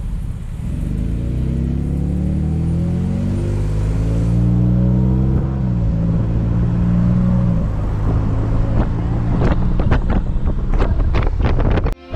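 Jeep engine and exhaust accelerating on the road, the pitch climbing for several seconds, holding, then dropping off. A loud sound from the exhaust follows, with a run of sharp cracks over the last few seconds; it comes from a muffler damaged after driving through a heavy rainstorm.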